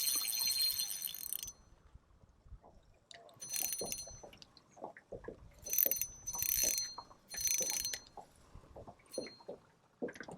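Fishing reel drag buzzing in short bursts of about half a second, separated by gaps, as a hooked longnose gar pulls line off the reel. Light knocks and taps of handling come in between the bursts.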